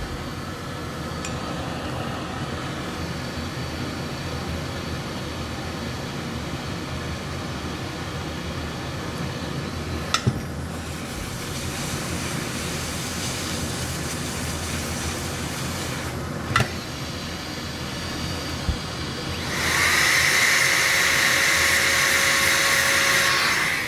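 Steady fan noise from electronics repair bench equipment, broken by a couple of sharp clicks. About twenty seconds in, a louder rush of air with a steady high whine starts and runs for about four seconds before stopping.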